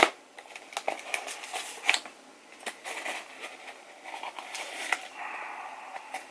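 A cardboard shipping box being handled and opened: a sharp tap at the start, then scattered clicks, scrapes and rustles, with a longer scraping stretch about five seconds in.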